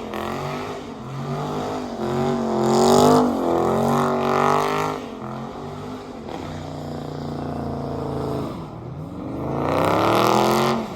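Car engine revved several times, its pitch climbing and dropping back, with the loudest revs about three seconds in and again near the end.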